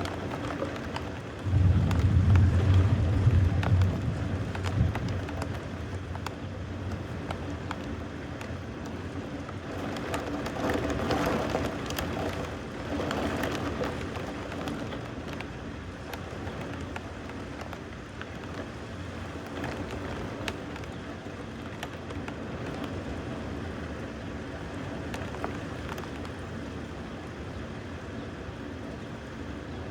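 Steady rain falling, with a low rumble of thunder that starts suddenly about a second and a half in and fades over a few seconds.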